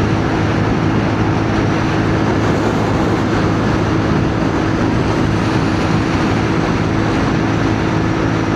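CFMoto 450NK's parallel-twin engine running at a steady cruising speed, the engine note holding one pitch, under a constant rush of wind noise.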